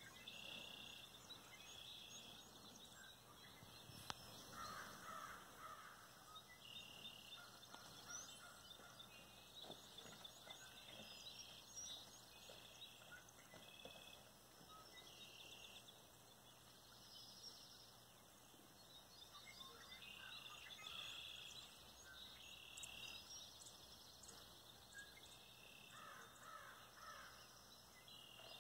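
Faint birdsong: short high chirping phrases recur every few seconds, with a few lower calls about five seconds in and again near the end.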